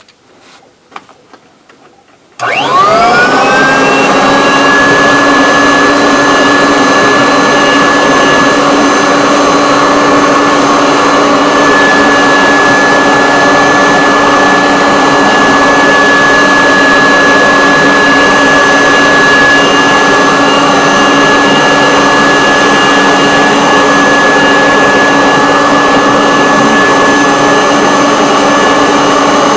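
A Kirby vacuum cleaner switched on about two and a half seconds in: its motor spins up with a quickly rising whine, then runs steadily at full speed. A few faint clicks come just before it starts.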